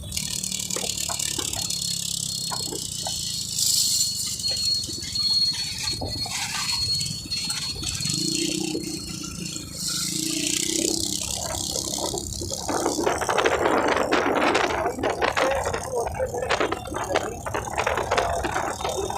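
Rattling and clattering over a steady high hiss, growing louder and busier about two-thirds of the way through.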